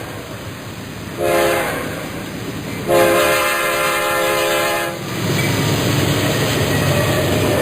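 Steam locomotive whistle sounding a short blast, then a longer blast of about two seconds, each a steady chord of several tones. After it, the low rumble of the train running.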